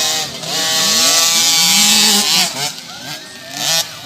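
Motocross dirt bike engines revving as they race past, their pitch rising and falling; loudest for the first two and a half seconds, dropping, then surging again near the end.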